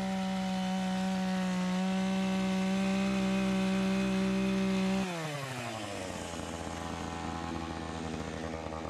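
Chainsaw engine held at full throttle, steady and high-pitched, then released about five seconds in, dropping to a low idle.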